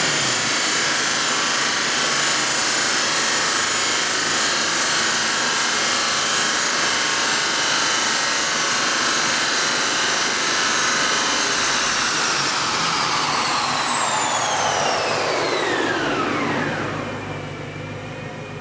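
BMW M3 E92 V8 on a Dynojet chassis dyno, running hard at high speed with a steady high whine along with the engine and exhaust. About twelve seconds in, the whine falls steadily in pitch as the car and rollers wind down, and it settles to a quieter low hum near the end.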